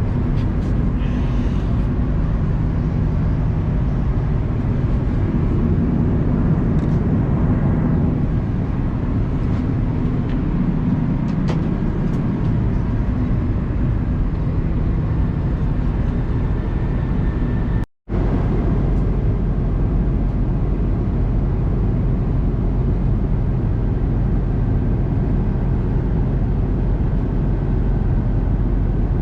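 Steady cabin noise of an Airbus A330-200 in descent: a constant rumble of engines and airflow. The sound cuts out for an instant about two-thirds of the way through and comes back with a deeper rumble.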